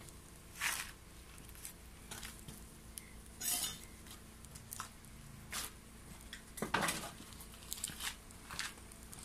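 Wood fire crackling and popping inside a homemade secondary-combustion stove burning wet wood: irregular sharp pops and snaps, with a longer crackling burst about three and a half seconds in and a cluster of pops around seven seconds.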